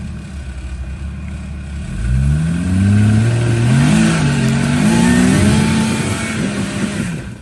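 Off-road rig's engine idling, then revved hard about two seconds in, its pitch rising and falling several times as it drives up a rock obstacle. The sound cuts off suddenly near the end.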